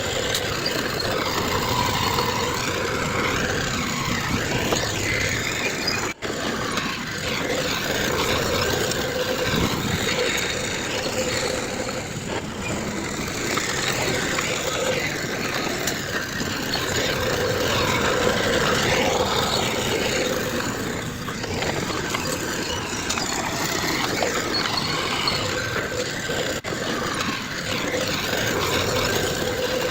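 Heavy diesel earthmoving machinery running and working steadily, with two very brief dropouts in the sound.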